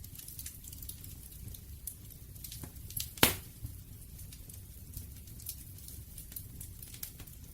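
Wood fire crackling: a scatter of small sharp pops and snaps over a low steady rumble, with one loud pop about three seconds in.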